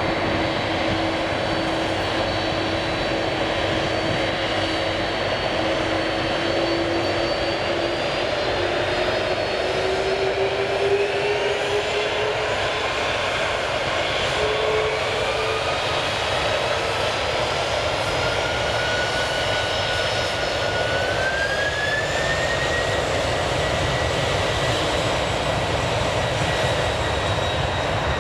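Jet airliner's engines running loudly and steadily, with a whine that rises slowly in pitch through the middle and then holds.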